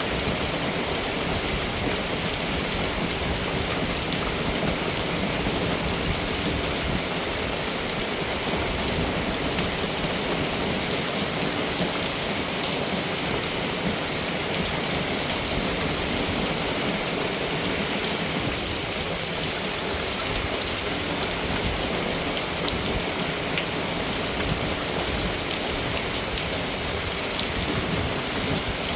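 Steady rain falling, a dense even hiss dotted with many small drop ticks on a hard surface.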